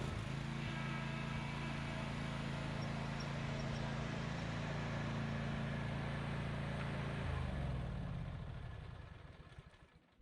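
Zero-turn riding mower engine running steadily just after starting, then shut off about seven seconds in, its hum dropping in pitch and dying away.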